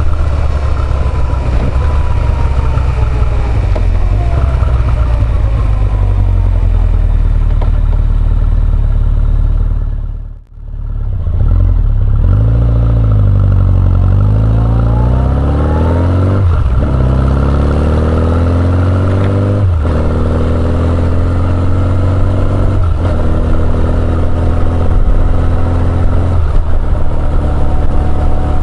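Exhaust of a Honda CB1100EX's inline-four through an Earl's Gear Wyvern Classic aftermarket muffler, heard from on board while riding. The engine runs steadily with a falling note, drops out briefly about ten seconds in, then pulls away with its pitch rising through about four upshifts, roughly every three seconds.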